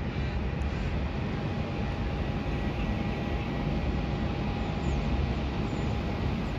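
Distant jet airliner engines running with a steady rumble and a faint high whine.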